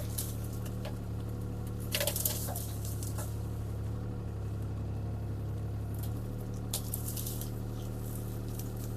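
CAT 303C CR mini excavator's diesel engine running steadily, with brief crackles of a small pine's branches and wood breaking about two seconds in and again near seven seconds.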